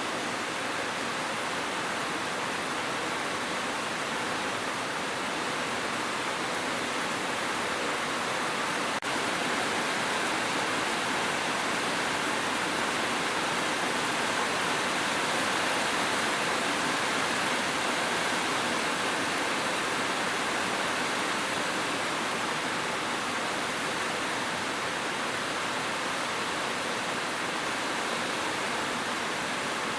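Steady heavy rain, a dense even hiss with no separate drops standing out.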